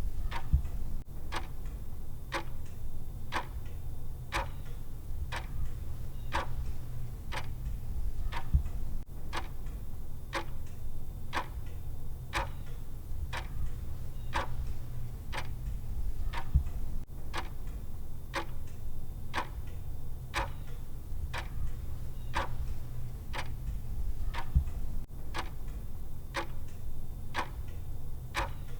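Countdown timer's clock tick sound: steady, evenly spaced ticks a little faster than once a second over a low steady hum, with a louder tick about every eight seconds.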